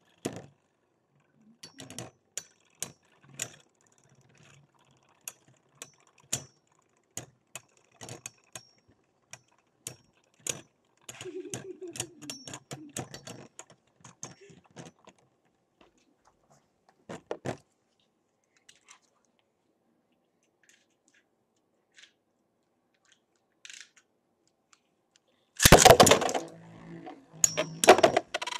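Metal Beyblade spinning tops clashing: irregular sharp metallic clicks and clinks that thin out to near quiet for a stretch, then a loud rattling clash near the end.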